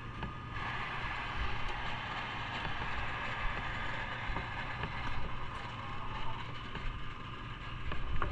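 Motorcycle engine running with a steady low hum. A hissing noise comes in about half a second in and fades near the end.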